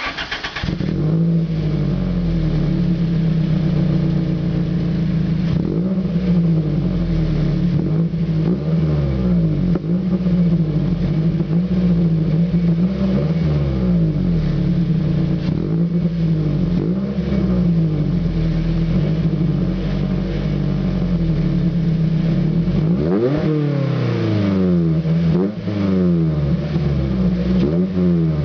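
2001 Toyota Celica GT's 1.8-litre four-cylinder engine running through a Tsudo aftermarket exhaust. It idles steadily with repeated throttle blips, each rev rising and falling in pitch, and several quick revs come in a row near the end.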